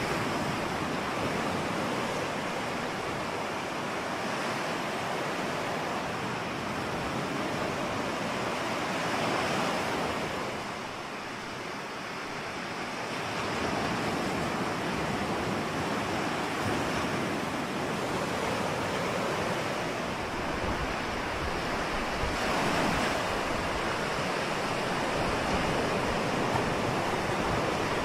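Ocean waves washing onto a shore, a continuous surf hiss that swells and eases slowly, dipping for a few seconds near the middle.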